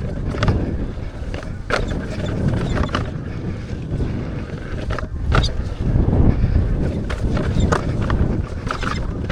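Wind buffeting the microphone over the rumble of an off-road electric unicycle riding a dirt trail, with scattered knocks and rattles from the bumpy ground.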